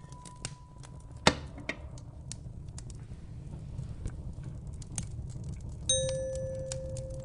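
Wood fire crackling in a fireplace over a low steady rumble, with irregular pops, one sharp loud pop about a second in. A single bell-like chime note rings out near the end and sustains, while an earlier chime note dies away at the start.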